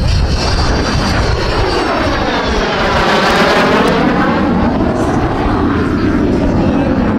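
MiG-17F jet fighter's Klimov VK-1F turbojet making a pass. The jet noise sweeps down in pitch to a low point about three seconds in and then rises again as the aircraft goes by.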